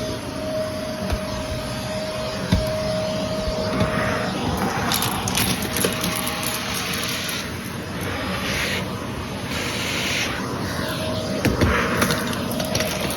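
Vacuum cleaner running, with a steady whine that drops away about four seconds in, followed by repeated rushing swells of air every second or two.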